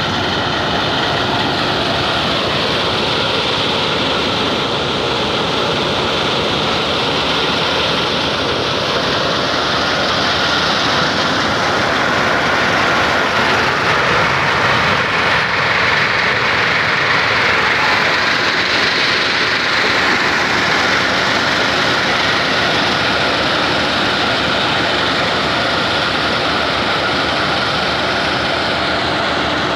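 A tractor driving a threshing machine, running steadily with a loud, continuous mechanical noise.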